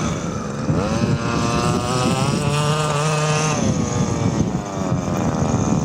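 Radio-controlled model aircraft motor and propeller flying past, its pitch rising, holding, then falling away.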